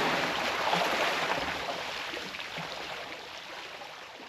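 Steady rushing noise of running water, fading out gradually to silence.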